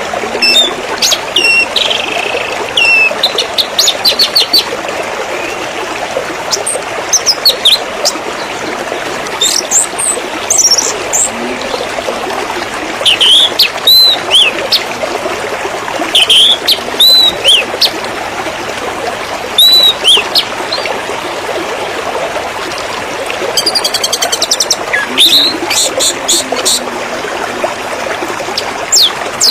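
Small songbirds chirping and whistling in short, spaced bouts over steadily trickling, splashing water. A fast run of rapid repeated notes comes about four-fifths of the way through.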